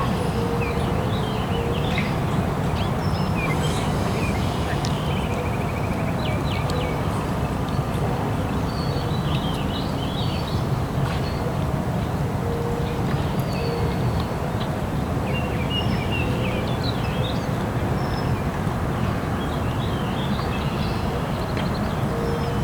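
Outdoor waterside ambience: small birds chirp and call again and again over a steady low rumble.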